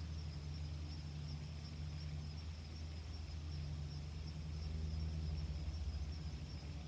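Quiet steady outdoor background: a low rumble under a thin, high, continuous insect trill.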